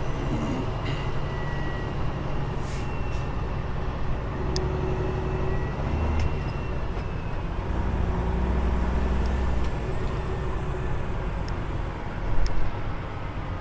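Peterbilt 389 glider heavy truck's diesel engine running steadily, heard from the cab, with its low drone growing louder twice as the truck gets underway.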